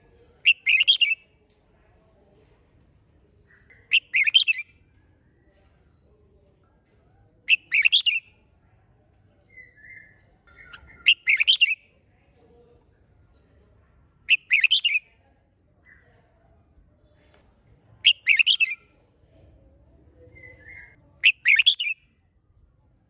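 Red-whiskered bulbul singing short, loud song phrases, seven of them about every three and a half seconds, with a few faint notes in between.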